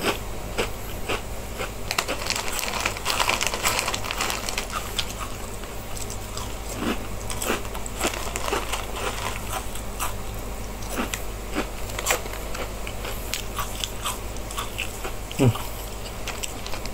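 Crunchy Mikako puffed snacks being chewed: irregular crunches and crackles throughout, with the plastic snack packet rustling as a hand reaches into it. One short sound that falls in pitch comes near the end.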